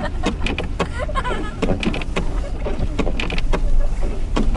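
Car cabin noise while driving: a steady low road rumble with many irregular sharp ticks, and faint voices in the background.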